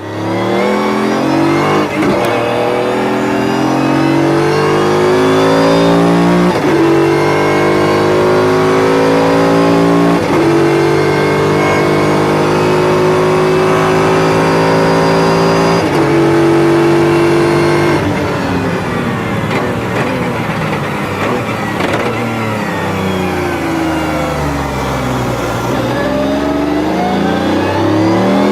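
Mercedes-Benz CLK GTR's 6.9-litre V12 race engine pulling hard, its pitch climbing and breaking off abruptly at each of several quick upshifts of the racing sequential gearbox. After about twenty seconds the revs fall away, then climb again near the end.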